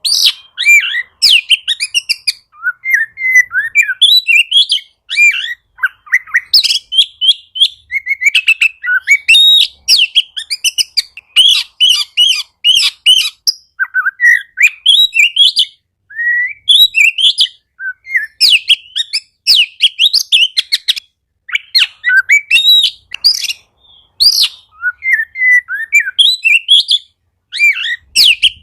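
Oriental magpie-robin singing a loud, rapid, varied song of whistles, sweeps and chattering notes, in busy phrases with short pauses between them.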